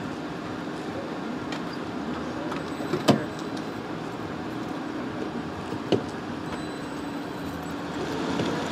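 Vehicle engine idling with a steady hum, broken by two sharp knocks, one about three seconds in and a second, weaker one near six seconds.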